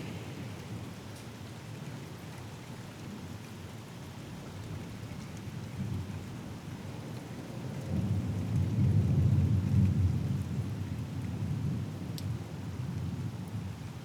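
Steady rain with a low rolling rumble of thunder that swells about eight seconds in, peaks, and dies away.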